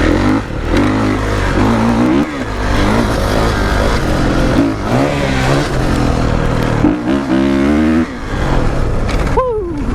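Kawasaki KX450 dirt bike's single-cylinder four-stroke engine revving under throttle while riding, its pitch climbing and dropping back several times as the throttle is opened and closed, with wind noise over it. Near the end the revs fall away in a falling glide.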